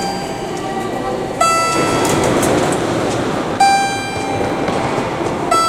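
Electronic chime on a Shinkansen platform sounding about every two seconds, alternating a lower and a higher tone, over steady train noise.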